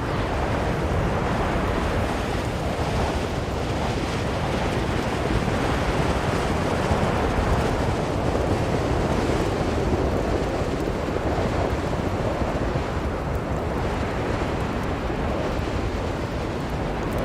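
Blizzard wind blowing hard and steadily, a dense rushing noise that swells slightly around the middle and then eases.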